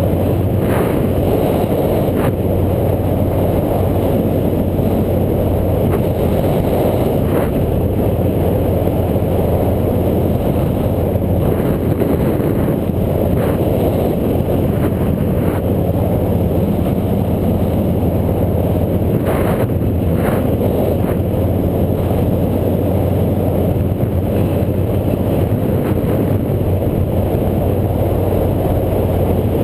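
Motorcycle engine running steadily at cruising speed, with a constant low hum and heavy wind rush on the microphone, and a few brief knocks.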